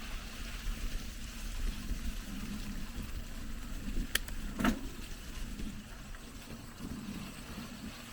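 Bicycle moving over a rough off-road trail: a steady rumble and hiss of tyres and wind, with two sharp knocks about four and a half seconds in.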